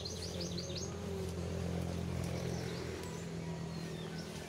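A bird calling a quick series of high, downward-slurred notes, about five a second, that stops about a second in. A steady low hum runs underneath.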